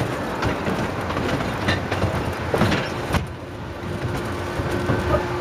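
Miniature railway train running along the track: a steady rumble of wheels on rail, broken by irregular sharp clicks. The rumble drops briefly a little past the middle.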